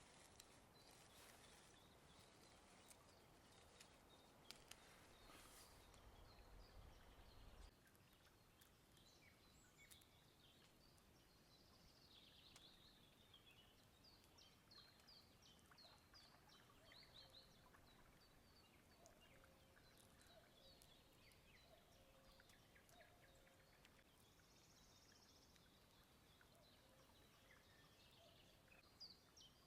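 Faint birdsong, series of short high chirps, over very quiet outdoor ambience. A few light clicks and a brief low rumble come in the first several seconds.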